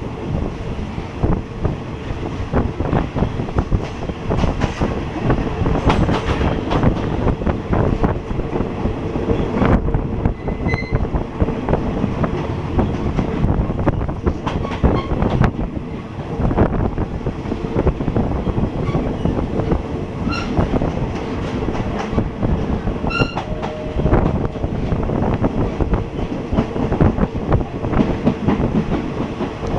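Passenger train running on the rails: wheels clattering over rail joints with a continuous rumble and a steady hum. A few brief high-pitched squeaks come about two-thirds of the way through.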